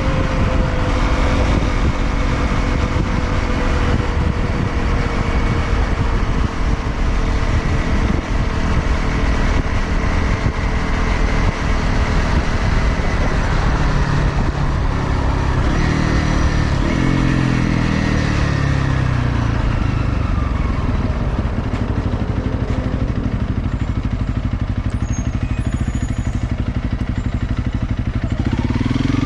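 Honda CRF250L's single-cylinder engine breathing through a Delta Barrel 4S aftermarket silencer on an SP Tadao Power Box header, running as the bike is ridden. The engine note falls a little past halfway and rises again near the end as it accelerates.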